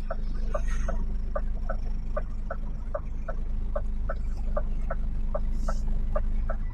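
Inside a lorry cab: a diesel engine runs steadily at low revs under a short, regular chirp that repeats about three times a second.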